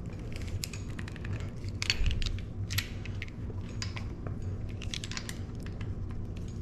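Light metallic clicks and taps of hand tools and bike parts being handled, scattered irregularly, a few louder knocks about two and three seconds in, over a steady low hum.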